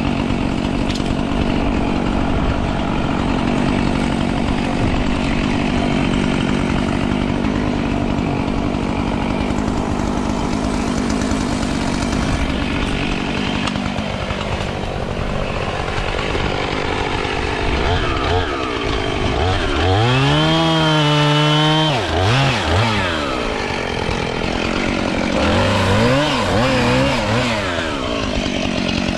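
Two-stroke chainsaw running continuously. The engine revs up to a held high pitch about two-thirds of the way through, then drops back, and revs up and down once more near the end.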